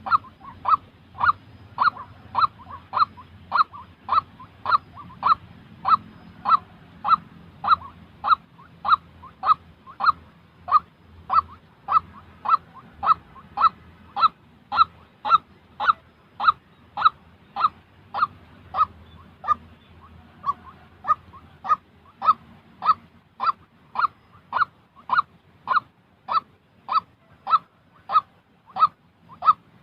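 White-breasted waterhen calling: one short, honking note repeated steadily, a little under two a second.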